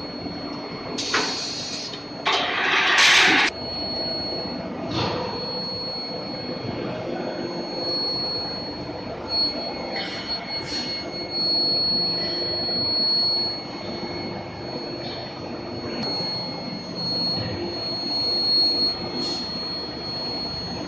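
Induction heating furnace line running: a steady high-pitched whine and a hum throughout. About a second in come two loud hissing bursts, followed later by a few fainter knocks.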